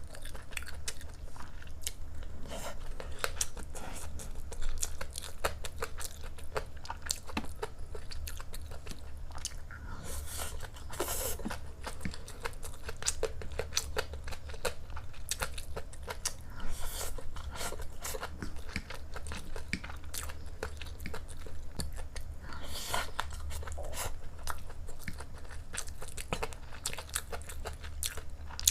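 Close-miked chewing of fried rice with preserved vegetables: a steady run of small moist mouth clicks and crunches, with a few louder, longer smacks, about ten seconds in and again near the end.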